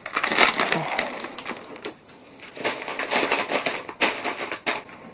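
Dense crackling and crunching of junk food being crushed by hand, in two spells with a short pause about two seconds in.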